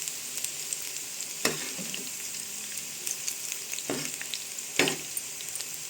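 Potato-and-onion pakoras deep-frying in hot oil, a steady sizzle as the batter crisps, with a few light knocks.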